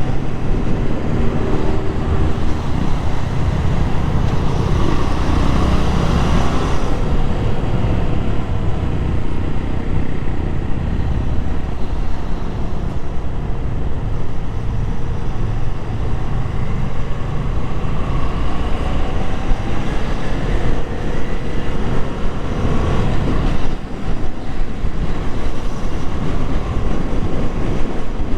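Motorcycle engine running under way, with wind and road noise; the engine's pitch slowly rises and falls as speed changes.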